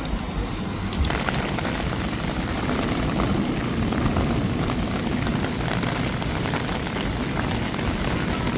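Heavy rain falling, a steady hiss that grows fuller about a second in.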